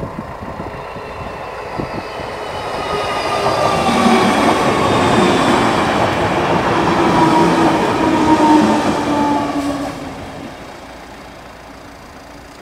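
Merseyrail third-rail electric multiple unit passing close by over a level crossing: it builds up, runs loudest for about five seconds with a whine from the motors and wheels that drops slightly in pitch, then fades away.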